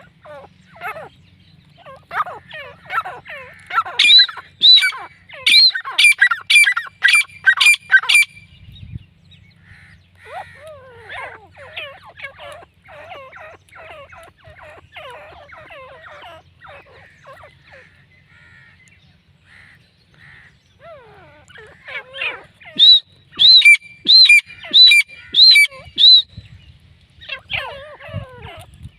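Grey francolins calling: a busy chatter of short notes, twice broken by a run of loud, ringing whistled notes repeated about two a second. The first run comes a few seconds in, the second near the end.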